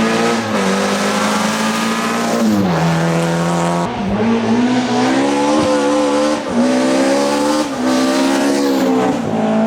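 Rally car engine running hard, its pitch climbing and dropping back several times as it changes gear, with tyre and gravel noise underneath.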